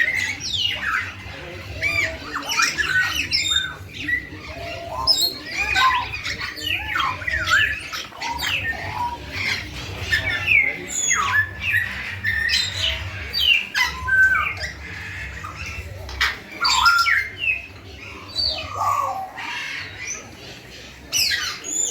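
Many birds calling at once: a dense, unbroken mix of short chirps and squawks.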